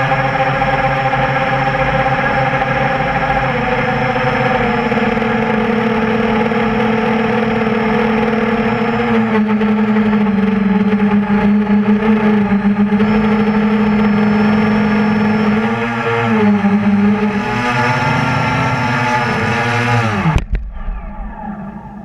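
The brushless motors of a QAV400 FPV quadcopter (Tiger Motor MT-2212 1100kv with 8x5 propellers) whining steadily in flight, heard from the onboard camera, the pitch shifting with the throttle. About 20 s in the sound cuts off sharply and a fainter, falling whine follows as the motors spin down.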